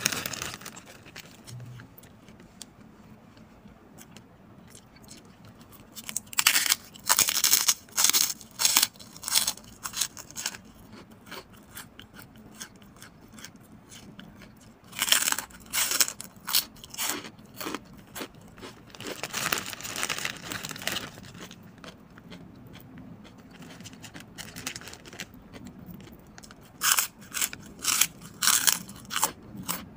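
Crispy chicharon baboy (fried pork rinds) being bitten and chewed close to the microphone: clusters of loud, sharp crunches with quieter pauses between them.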